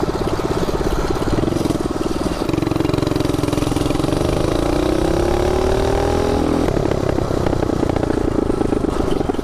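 Coleman CT200U minibike's small engine running while being ridden. Its pitch drops about two and a half seconds in, climbs steadily for a few seconds, then settles back to a steady note.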